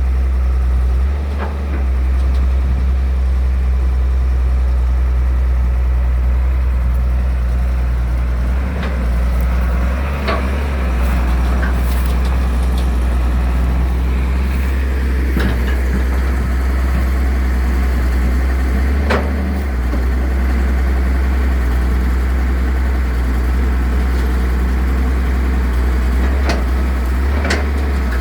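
Excavator's diesel engine running steadily with a deep drone, with a few short sharp knocks scattered through.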